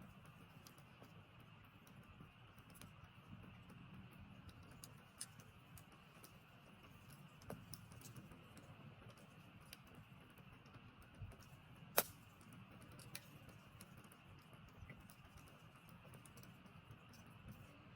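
Wood campfire crackling faintly, with scattered small pops and snaps and one sharp, loud crack about twelve seconds in.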